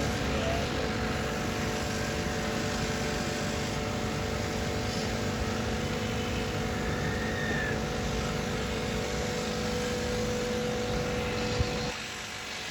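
A steady machine hum with a few fixed tones, like a motor running. About twelve seconds in there is a click, and part of the hum cuts out while one tone keeps going.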